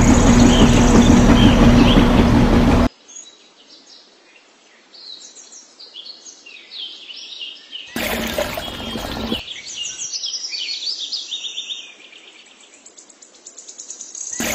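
A small motor runs with a steady hum for about three seconds and cuts off suddenly. Birds then chirp and twitter, with a short burst of rustling noise about eight seconds in and another near the end.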